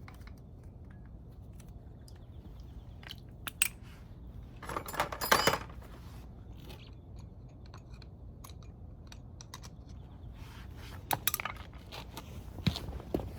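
Metal tools and engine parts being handled during disassembly: scattered clicks and knocks, with a short burst of metallic clattering about five seconds in.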